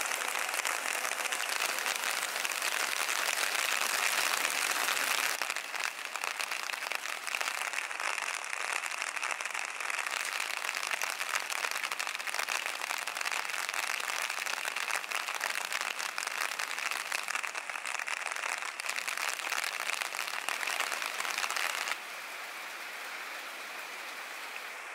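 Heavy rain falling, a dense steady hiss of drops. It drops in level abruptly about five seconds in and again near the end.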